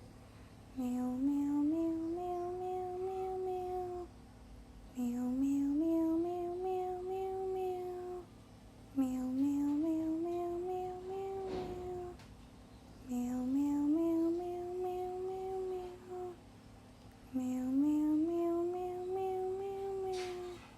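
A voice humming a slow lullaby-like tune: the same rising phrase held for about three seconds, repeated five times with short gaps.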